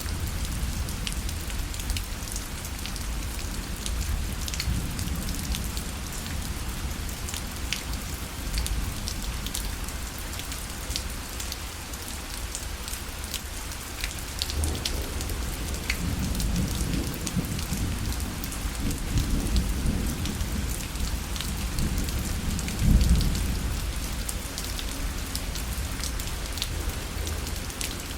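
Rain falling on a parasol: a steady patter with many sharp individual drop hits. A low rumble swells in the second half and peaks near the end.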